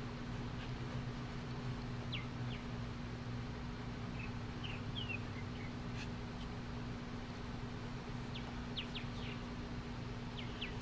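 Birds giving short, high chirps now and then, with a cluster of several about eight to nine seconds in, over a steady low hum.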